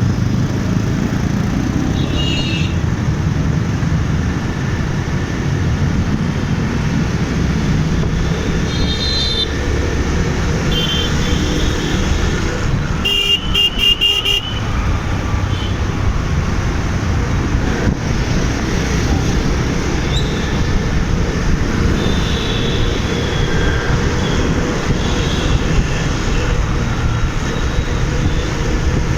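City traffic heard from a moving motorcycle: a steady low rumble of engine and road noise, with horns of other vehicles honking again and again, the longest and loudest honking near the middle.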